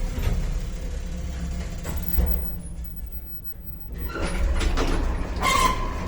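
1978 MOELZ passenger lift: a low running rumble, then a sharp knock about two seconds in. Near the end comes a sliding door mechanism with a short high squeal.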